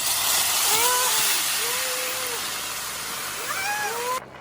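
Water poured into a hot pan of butter-toasted rice and vermicelli, setting off a loud sizzling hiss that slowly fades and cuts off suddenly near the end.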